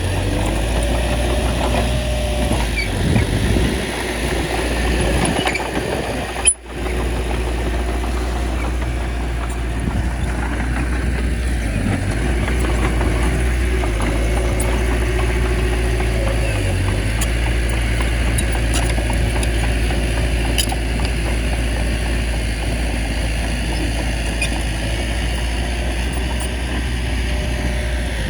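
Bulldozer's diesel engine running steadily under load, with a brief click and dropout about six and a half seconds in.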